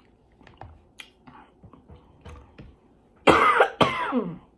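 Faint mouth and chewing clicks while eating, then about three seconds in a woman coughs loudly twice in quick succession.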